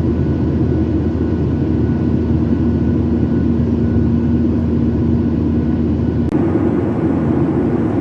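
Steady roar of an airliner in flight, heard inside the passenger cabin: engine and airflow noise, heaviest in the low range, with a faint steady hum. The sound shifts slightly about six seconds in.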